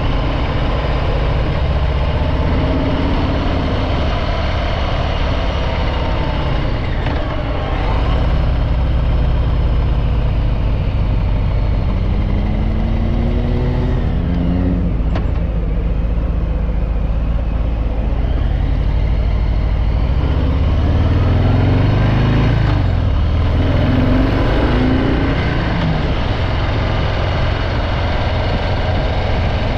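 Harley-Davidson Breakout 114's stock-exhaust Milwaukee-Eight 114 V-twin running under way. The engine note climbs in pitch as it accelerates through the middle, breaks off, then climbs again about two-thirds of the way through.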